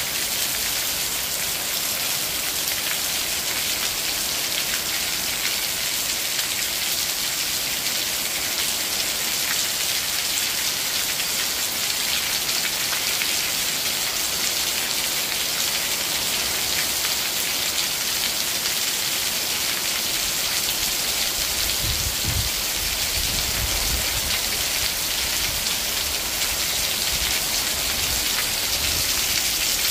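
Heavy rain falling steadily, a dense even hiss of drops on the ground and surfaces. About two-thirds of the way through, a low rumble comes in under it for a few seconds.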